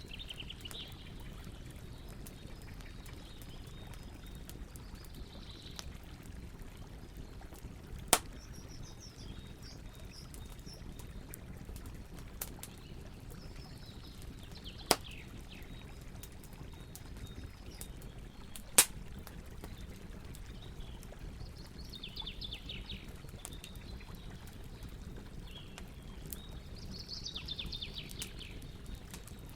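Campfire burning with a steady low rumble, broken by sharp wood pops: three loud ones and a smaller one. Short high chirps, like birds calling, come and go several times.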